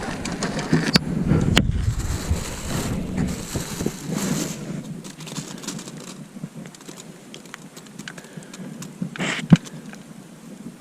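Wind buffeting the microphone as a rough low rumble with hiss, dying away about halfway through. Gear in the boat gives two sharp clicks early on and a louder knock near the end.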